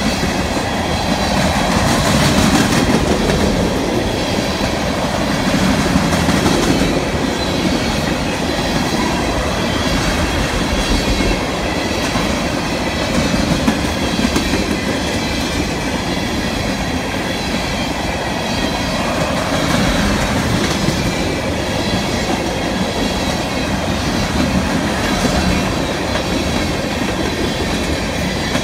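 Freight train of empty ethanol tank cars rolling past: steady rumble and rattle of steel wheels on the rails, swelling and easing a little every few seconds as the cars go by.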